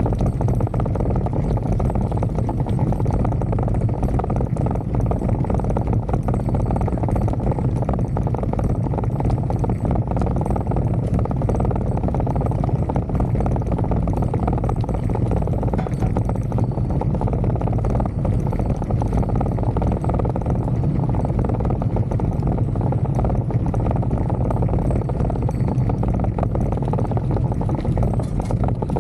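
Steady wind rush and rumble on the microphone of a bicycle coasting fast downhill, mixed with tyre and road noise, low and unbroken throughout.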